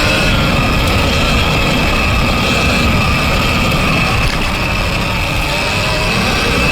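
Electric dirt bike motor (TORP TM50 Pro in a Surron Ultra Bee) whining as it runs, its pitch wavering up and down with the throttle, over a dense low rumble.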